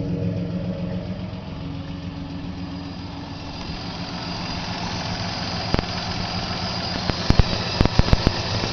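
1993 Toyota T100's rebuilt V6 idling steadily through its custom exhaust, a Y-pipe into a single 2½-inch pipe and muffler with a side exit. After a few seconds the idle fades under a rising hiss, and a run of sharp clicks and knocks comes in the second half.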